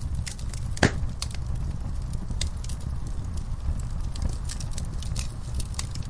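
Wood fire burning in a fireplace: a steady low rumble of flames with scattered sharp crackles and pops, one louder pop a little under a second in.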